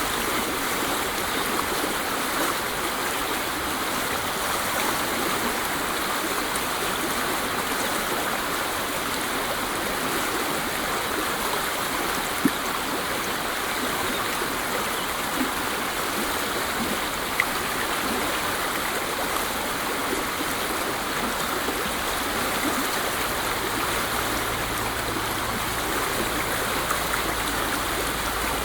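Waterfall: water falling and rushing steadily, with a few brief splashes standing out.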